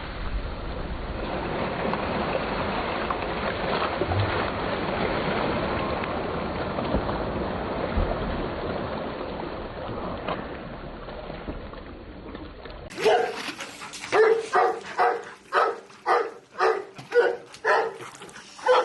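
Steady rushing and splashing of pool water for most of the stretch, then, about thirteen seconds in, a dog barking repeatedly, about two barks a second.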